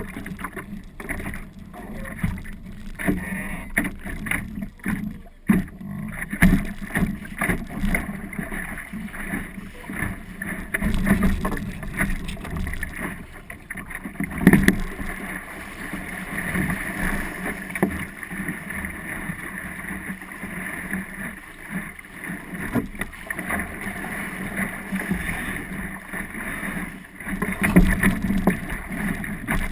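An Optimist dinghy under sail: steady water rush and splashing along the small hull, with irregular knocks and bumps throughout.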